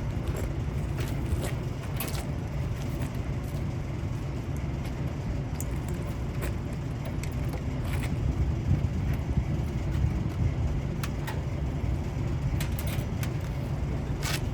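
Steady low background rumble, with scattered light metallic clicks and taps from hand tools as a condenser fan motor is being taken out of a rooftop AC unit.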